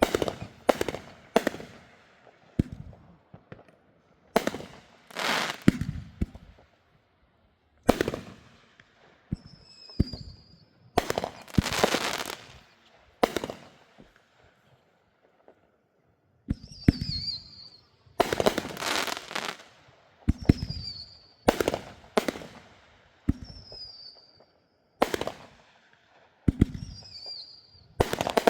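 Consumer fireworks going off in a fast series of sharp bangs. Some bangs stretch into a second or more of dense crackle, and several short high whistles sound between them.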